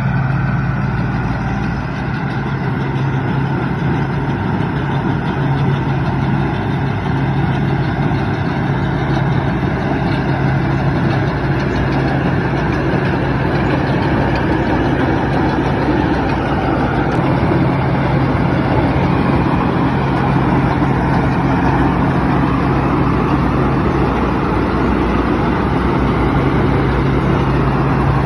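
Engine of a farm machine running steadily while harvesting rice: a continuous low drone.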